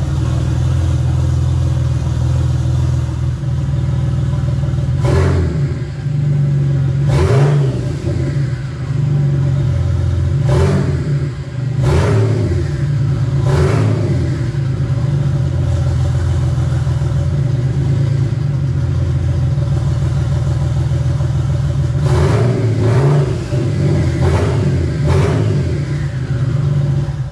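Audi B5 S4's 2.7-litre twin-turbo V6, fitted with tubular manifolds, hybrid turbos and 3-inch downpipes, idling on its first start-up after an RS4 conversion. The throttle is blipped about five times, each rev rising and falling quickly, then four quick blips in a row near the end.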